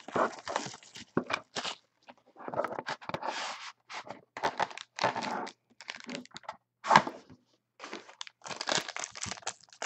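A sealed trading-card box and its wrapping being torn open and crinkled by hand, in irregular bursts with short pauses. There is one sharp snap about seven seconds in.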